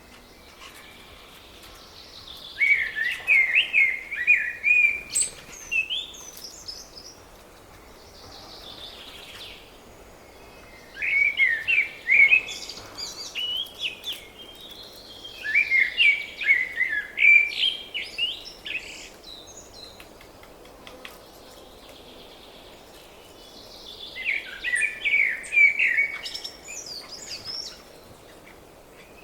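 A songbird singing: four phrases of quick chirping notes a few seconds apart, with fainter calls in between.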